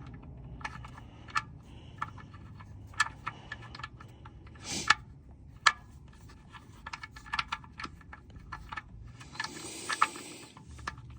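Scattered light metallic clicks and clinks from a hand ratchet and bolt being worked, a few at a time, with a louder clatter about five seconds in and a short scraping rustle near the end.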